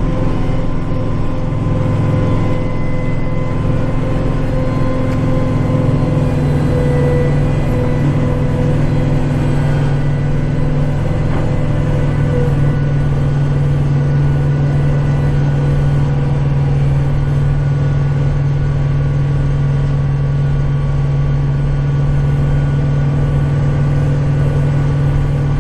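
Kubota tractor's diesel engine running steadily at working revs while clearing snow, a constant hum with a steady whine above it; the engine note shifts slightly about six seconds in.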